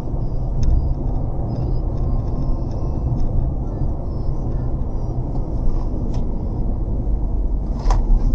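Steady low rumble of a moving car's road and engine noise, with a few faint clicks and one sharp knock near the end.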